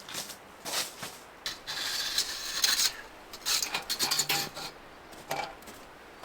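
Irregular rubbing and scraping with short clicks and knocks, like gear or utensils being handled, with a longer scrape a couple of seconds in.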